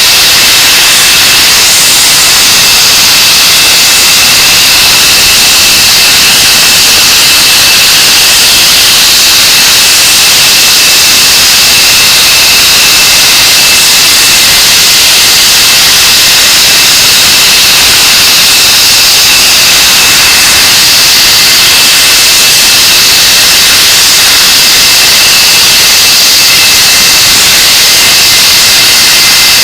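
English Electric Lightning's Rolls-Royce Avon turbojet engines on a ground run, running loud and steady with a high compressor whine over the jet noise.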